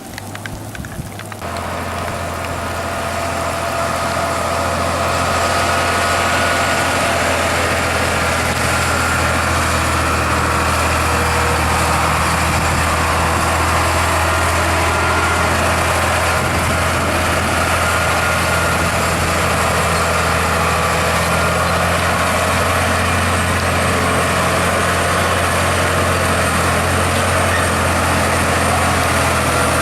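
Heavy truck diesel engine running steadily, growing louder over the first few seconds and then holding a constant drone.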